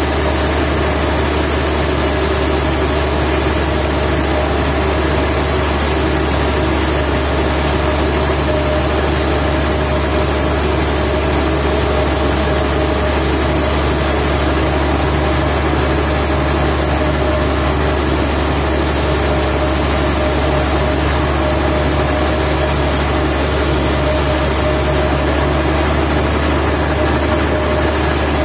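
Sawmill machinery running steadily: a continuous low engine drone with a steady hum over it, unchanging in level.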